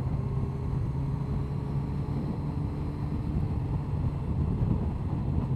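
Honda CBR1100XX Blackbird's inline-four engine running steadily at cruise in a middle gear, its drone holding one pitch.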